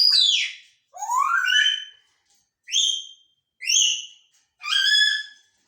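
Pet parrot giving five short, high whistled calls, the first falling in pitch and the second rising, then three shorter ones.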